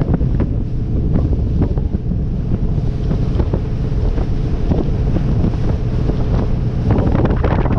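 Heavy wind buffeting on the microphone aboard a motorboat under way, over the boat's engine and the hull running through the water, with irregular short knocks and splashes.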